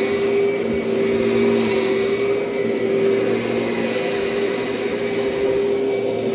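Kirby upright vacuum cleaner running steadily on plush carpet, its motor giving a constant whine over a rush of air.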